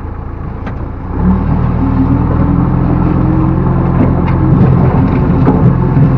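Backhoe loader's diesel engine running, revving up about a second in and holding at the higher speed, with a few sharp knocks in the second half.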